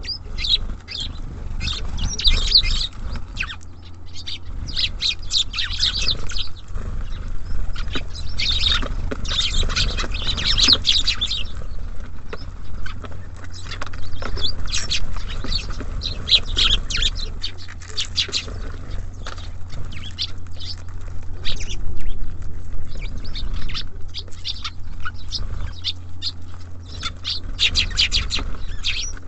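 Small songbirds chirping and calling in quick clusters of short high notes, over a steady low rumble.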